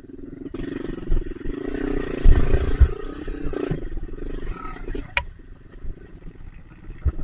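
Dirt bike engine revving under load, its pitch wavering, with a few heavy low knocks about two to three seconds in.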